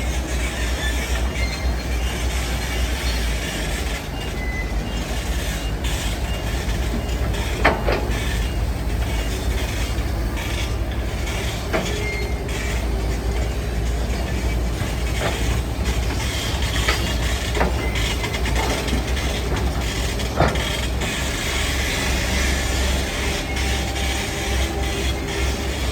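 Heavy diesel construction machinery working: a steady low engine rumble with scattered sharp clanks and knocks, as of steel and stone striking.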